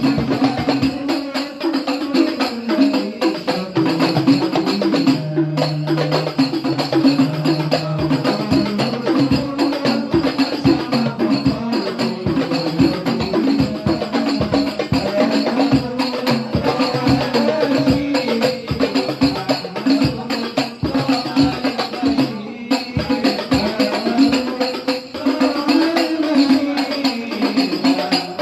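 Darbuka goblet drums played in a fast ensemble rhythm with a jingling tambourine, banjari-style hand percussion.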